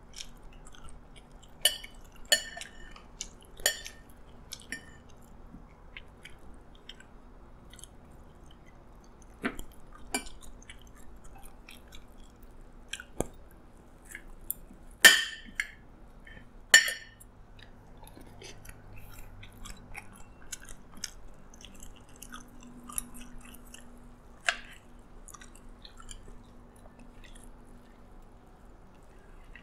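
Close-up chewing of fried chicken and rice, with sharp clinks of a metal spoon and fork against a ceramic plate as the chicken is cut. The two loudest clinks come about halfway through, close together.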